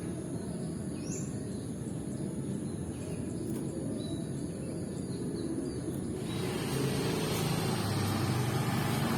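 Low, steady rumble of road traffic that swells and broadens about six seconds in as a vehicle passes close by. A few faint bird chirps sound over it, with a thin steady high-pitched whine behind.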